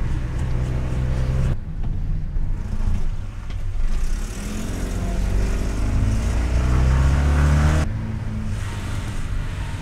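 2013 Fiat Panda 4x4 driving, heard from a mic mounted on the outside of the car: the engine runs steadily with road noise, then revs up with a rising note in the second half before its sound drops off abruptly near the end.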